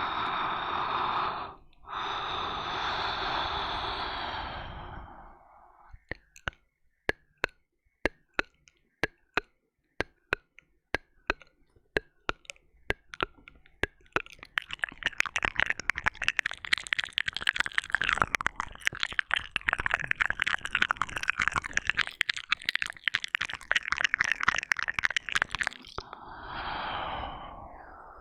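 ASMR mouth sounds close on a binaural microphone: a long breathy exhale at first, then single wet mouth clicks about two a second, building into a long run of dense, rapid wet licking and smacking sounds, with another breath near the end.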